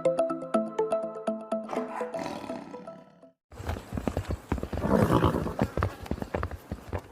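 A short jingle of quick, evenly spaced musical notes, then after a brief gap a horse sound: hooves clattering with a louder swell that fits a neigh about five seconds in.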